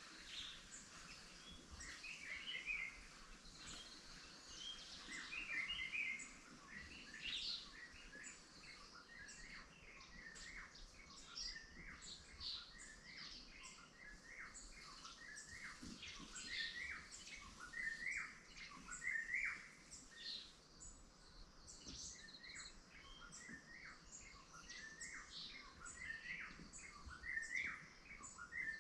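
Several birds chirping and calling at once: many short, overlapping chirps and trills.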